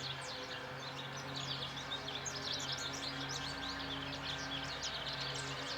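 Many small birds chirping and twittering at once, a dense run of quick high chirps, over a steady low hum.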